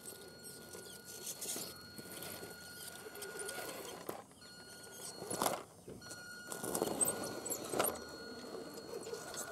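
Radio-controlled Axial SCX10 scale truck's electric motor and drivetrain whining as it drives off-road, with louder bursts of throttle about five and a half seconds in and again around seven to eight seconds in.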